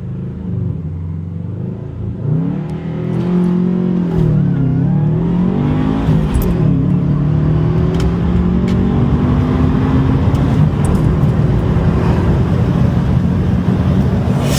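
Turbocharged Subaru Impreza flat-four boxer engine running under varying revs. The pitch rises and dips a few times, then holds a steady, gently climbing note, getting louder about two seconds in.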